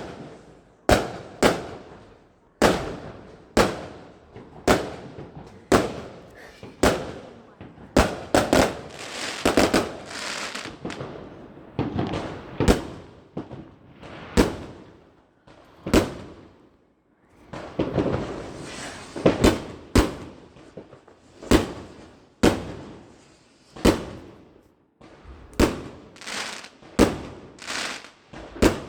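Fireworks going off in a rapid series, with a sharp bang about once a second. Twice, a few seconds of hissing and crackling fill the gaps between the bangs.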